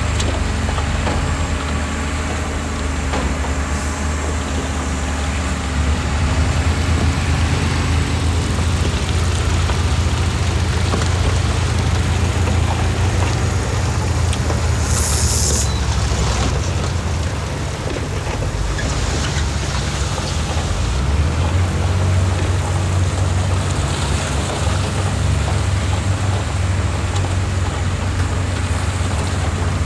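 Heavy diesel construction machinery running steadily with a deep, even engine drone. A short sharp hiss comes about halfway through.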